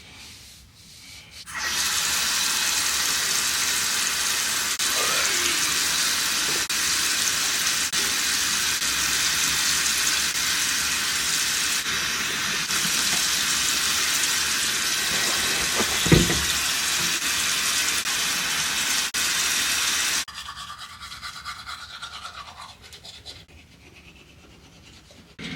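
A loud, steady rushing hiss that starts a second or two in and stops abruptly about four-fifths of the way through, followed by quieter irregular sounds.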